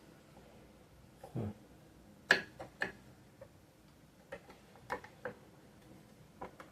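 Irregular sharp clicks and taps from tools and parts of a sewing machine being taken apart, about seven in all, the loudest about two seconds in.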